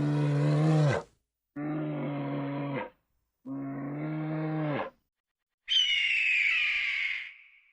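Animal calls: three long, low calls with a steady pitch, each cut off abruptly. Near the end comes a single higher call that slides down in pitch.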